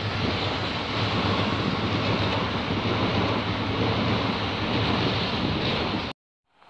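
Southeastern Class 395 Javelin high-speed electric train passing close beneath a footbridge: a loud, steady rushing noise with a low hum underneath. It cuts off abruptly about six seconds in.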